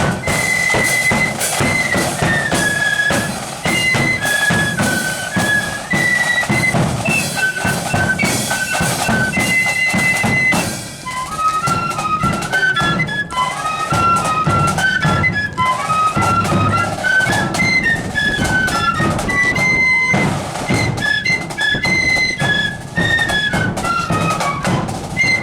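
Marching flute band playing a tune: a high flute melody over snare and bass drums.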